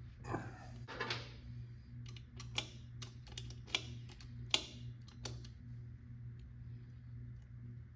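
A series of irregular light clicks and taps over a steady low hum, with a couple of softer rustling sounds in the first second.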